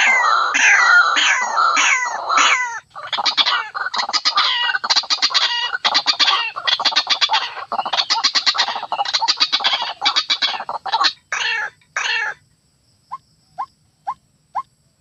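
White-breasted waterhen calling: harsh repeated croaking notes give way to a dense, rapid chattering run. About twelve seconds in this breaks off into single short rising notes, about two a second.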